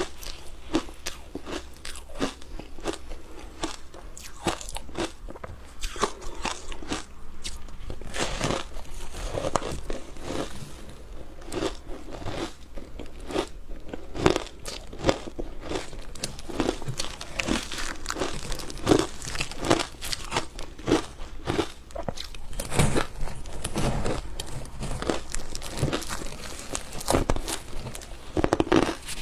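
Close-miked crunching and chewing of ice, with many irregular bites and crunches.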